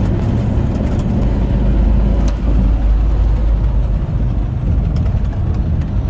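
Heavy loaded truck on the road, its engine and road noise a steady low rumble that swells for a couple of seconds in the middle.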